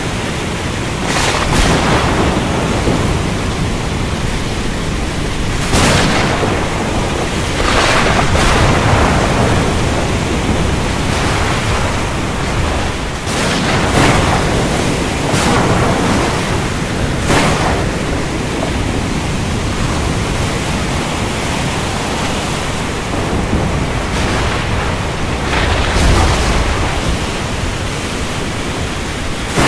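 Heavy rain and ocean wash in a thunderstorm, a steady loud rush broken every few seconds by short sharp crashes of thunder or breaking waves.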